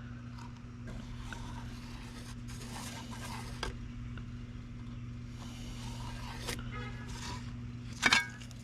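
Steady low electrical hum with faint scraping and handling noises on top, two sharp clicks and a short clatter near the end.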